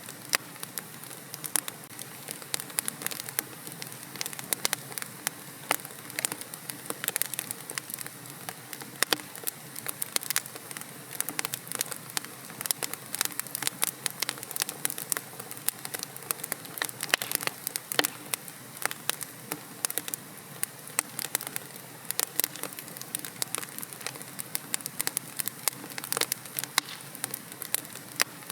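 Wood fire crackling in a fireplace: many irregular sharp pops and snaps over a soft steady hiss.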